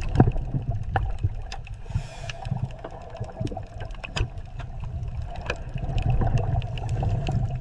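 Water gurgling and sloshing over a steady low rumble, with many scattered sharp clicks.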